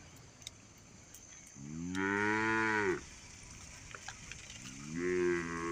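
Cow mooing twice: two long, pitched moos, the first about a second and a half in and the second starting near the end.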